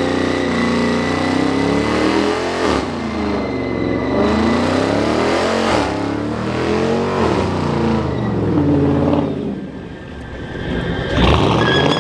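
Car engine revving hard up and down over and over, its pitch rising and falling every couple of seconds, as a car slides in circles. It drops briefly about ten seconds in, then revs up again.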